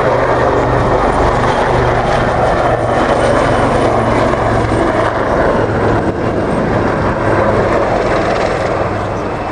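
Royal Navy Wildcat helicopters of the Black Cats display team making a fast pass: loud, steady rotor and turbine noise that eases slightly near the end.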